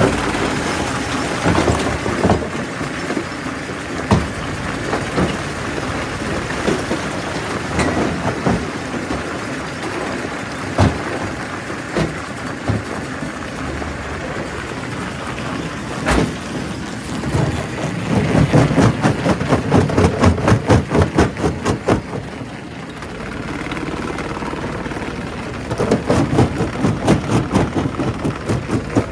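Quarry primary rock crusher running, with rocks knocking and cracking as they are crushed. Sharp single knocks come now and then. Two stretches of rapid pounding, several strokes a second, come in the second half.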